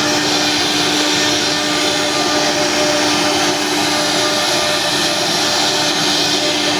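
CNC router spindle running steadily as it carves a 3D design into wood, a constant tone over the even noise of the bit cutting.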